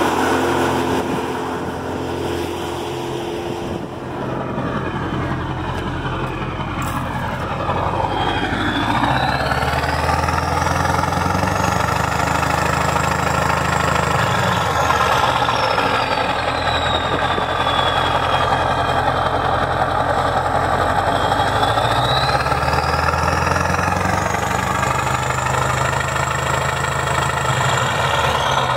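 Freshly overhauled KAMAZ Euro-5 truck diesel engine running. It idles at first, then is revved up and held twice, each time for several seconds, with a high whine rising and falling with the revs.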